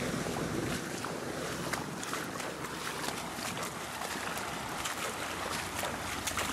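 Wind on the microphone over floodwater, an even rushing noise with a scatter of small sharp ticks.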